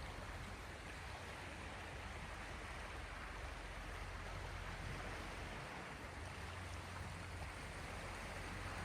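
Steady wash of small sea waves, an even rushing noise with a low rumble beneath it.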